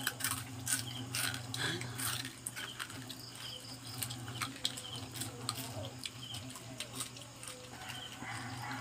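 Crunching and chewing of crispy deep-fried native crab: an irregular run of crisp cracks and crackles, thickest in the first two seconds, over a steady low hum.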